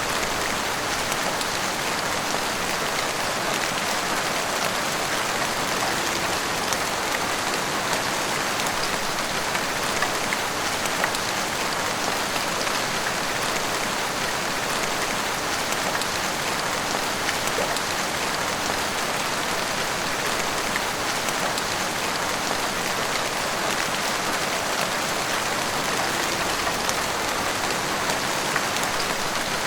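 Steady heavy rain pouring down and hitting rooftops and the street, with scattered individual drop ticks.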